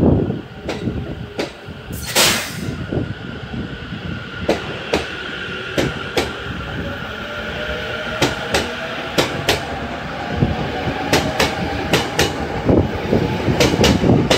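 E257 series electric train pulling away and gathering speed past the listener. Its motor whine rises slowly in pitch, and its wheels click in pairs over the rail joints as each bogie passes. There is a short hiss about two seconds in.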